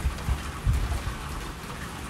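Steady heavy rainfall with a low rumble of thunder underneath, swelling briefly twice in the first second.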